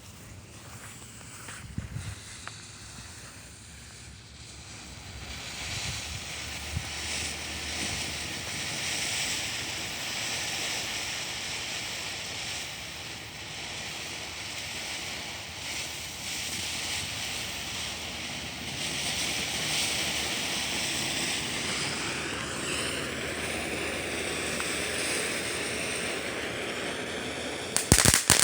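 Small ground firework burning with a steady, rising hiss of spraying sparks, then breaking into loud, rapid crackling near the end.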